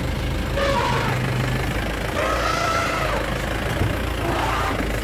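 Vehicle engine idling steadily with a low hum. Fainter pitched calls rise and fall over it, briefly about half a second in and again around two to three seconds in.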